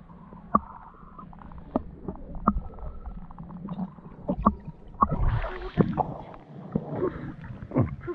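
Muffled water sloshing and gurgling in a small water-filled pool liner, with a series of sharp knocks and a low rumble; the sloshing picks up about five seconds in.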